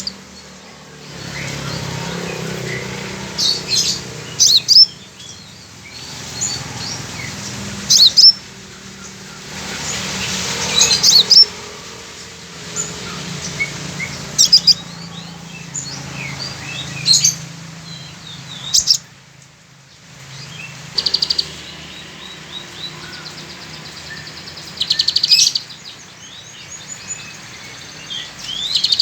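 A sunbird singing in short bursts of sharp, high chirps and trills, its song filled with the learned calls of a female sunbird, over a steady hiss of rain that swells at times.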